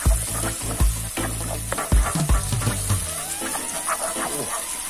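Shallots, garlic and chili sizzling in hot oil in a wok, stirred with a wooden spatula that scrapes and knocks against the pan several times in the first two and a half seconds. Background music plays underneath.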